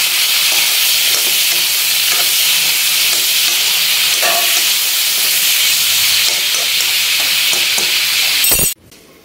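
Sliced onions, cashews and coconut pieces sizzling in hot oil in an iron karahi, stirred with a steel spoon that now and then scrapes and clicks against the pan. The steady sizzle cuts off abruptly near the end.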